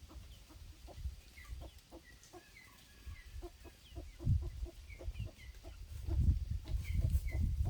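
Chickens clucking, a run of short repeated calls, over low rumbling thumps that grow louder in the second half.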